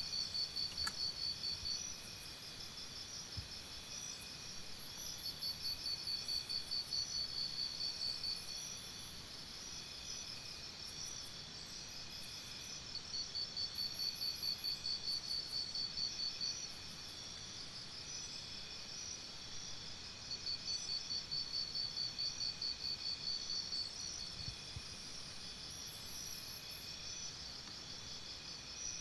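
Insects chirping in the open: high pulsed trills that swell in bouts of three or four seconds, about every seven seconds, over a steady high-pitched chirring chorus.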